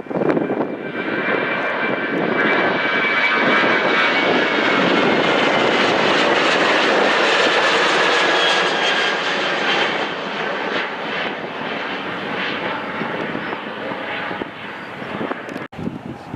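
Jet airliner's engines passing close: a broad rush that swells to a peak with a faint high whine dipping slightly in pitch, then slowly fades.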